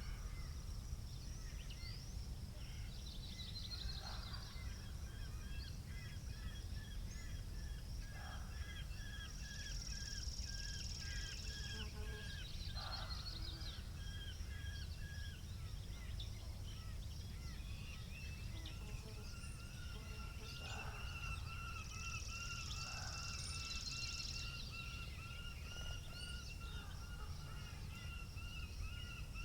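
Several birds singing: chirps and trills throughout, with two steady whistled notes from about two-thirds of the way in, over a constant low rumble of wind.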